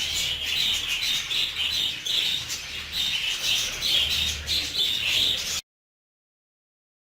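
A flock of budgerigars chattering with a dense run of chirps and warbles, cutting off abruptly near the end.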